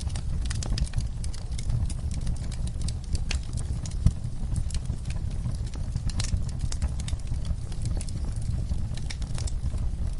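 Wood fire in a fireplace crackling: frequent small sharp pops at irregular intervals over a steady low rumble, with one louder pop about four seconds in.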